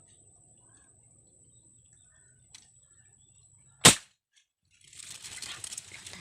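A single sharp shot from a tank-fed air gun about four seconds in, followed by a rustling, crackling noise.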